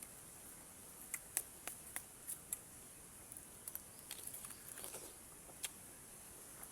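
Faint, irregular sharp clicks and crunches of someone biting and chewing a firm raw fruit with its peel on, with a quicker run of small crunches about four to five seconds in.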